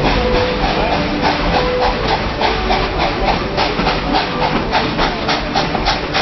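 Narrow-gauge steam locomotive chuffing under way, its exhaust beats coming in a quick, even rhythm over a steady hiss of steam.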